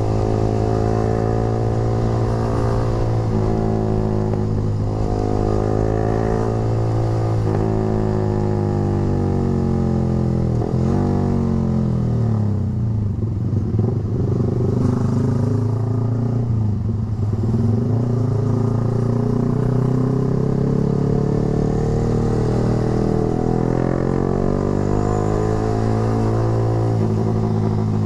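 Yamaha R15 V3's 155 cc single-cylinder engine running loud through an aftermarket Proliner short racing exhaust. Its pitch falls and rises several times as the revs change, with the deepest drop and climb midway.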